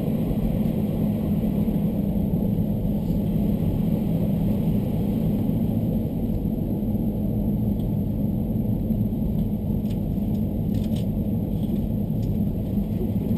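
Steady low rumble of a diesel railcar running along the track, heard from inside the carriage: engine and wheel-on-rail noise.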